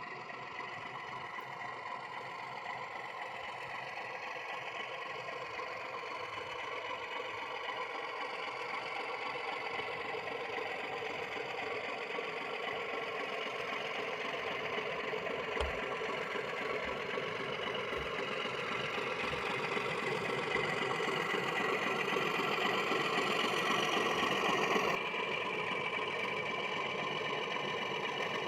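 Diesel engine sound from a model Class 31 locomotive's onboard sound decoder, running steadily and growing gradually louder, with a sudden change about 25 seconds in.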